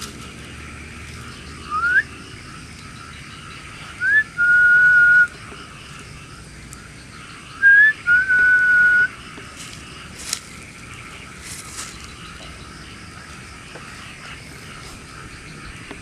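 A person whistling three times. The first is a short rising whistle, and the second and third each flick upward and then hold a steady note for about a second, over a steady high-pitched background hiss.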